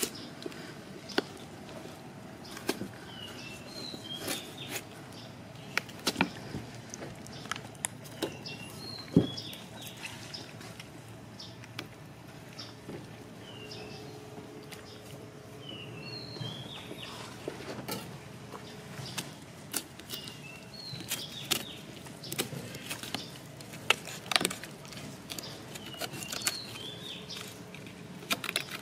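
A small bird calling, a quick two- or three-note chirp repeated every few seconds, over scattered sharp clicks and knocks from a knife cutting through a raw ostrich carcass.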